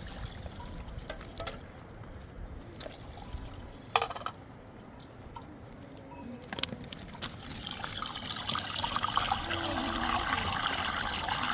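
Liquid pouring, starting a little past the middle and building in level toward the end, with a single sharp knock about four seconds in.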